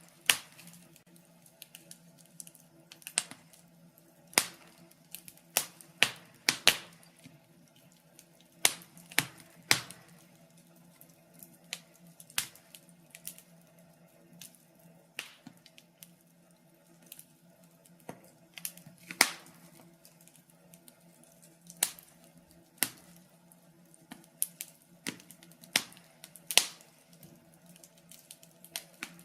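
Log fire crackling in a fireplace: irregular sharp pops and snaps, one or two a second, some much louder than others, over a faint steady low hum.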